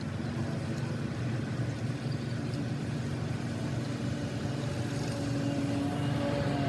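An engine running steadily, a low drone with a faint higher whine coming in near the end.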